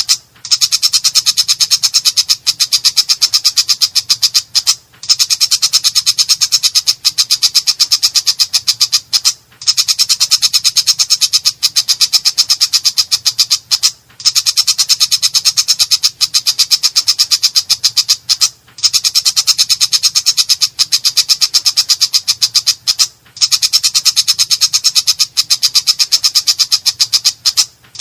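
Long-tailed shrike (cendet) giving a harsh, rough-voiced rapid chatter. It comes in fast runs of many notes a second, each run about four to five seconds long, with brief breaks between them at very even intervals.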